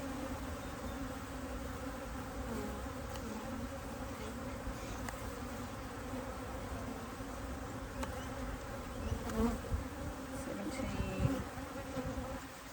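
Honeybees from an open top bar hive buzzing in a steady, many-voiced hum around the beekeeper during a frame-by-frame inspection. A few low bumps come about nine to eleven seconds in.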